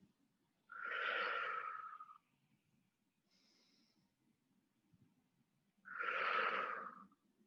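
Two long, audible breaths close to the microphone, about five seconds apart, each with a slight whistle that falls a little in pitch: slow, paced breathing during tai chi movement.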